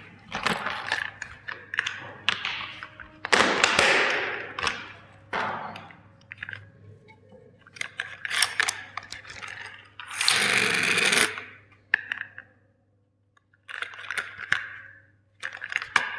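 Toys being crushed: a string of cracks, crunches and scrapes with pieces clattering, and a longer harsh crunch about ten seconds in.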